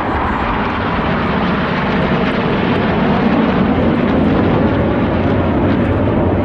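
A fixed-wing aircraft's engine noise as it flies over, a loud steady rushing drone that swells a little partway through.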